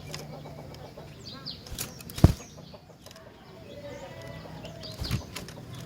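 A bird fluttering and hopping about, with a sharp knock about two seconds in and another near the end, and a few faint chirps.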